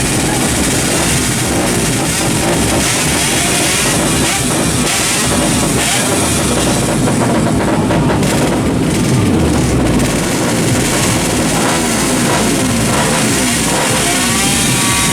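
Two-stroke drag bike engines running loud and raspy, with rising and falling revs near the end.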